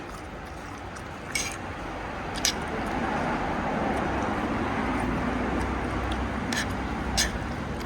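Street-food stall ambience: a steady background noise that swells about three seconds in, with four short, sharp clinks of dishes or utensils scattered through it.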